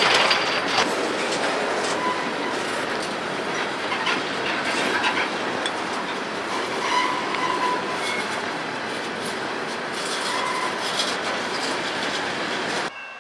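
CSX freight train cars rolling past, their wheels clattering over the rail joints. A few brief wheel squeals come through, around two, seven and ten seconds in. The sound cuts off suddenly near the end.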